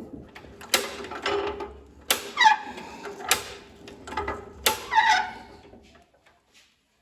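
Metal parts and tools clacking during valve installation in a Hercules IXA engine: four loud, sharp clacks roughly a second apart with lighter clicks between, several leaving a short ringing that falls in pitch. The sound stops about a second before the end.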